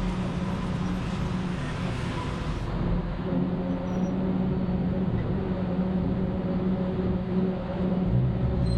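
Road traffic noise with a steady engine hum.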